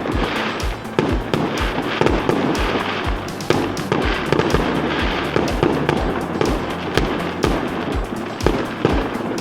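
Fireworks bursting and crackling in quick succession throughout, over music with a steady bass beat of about two thumps a second.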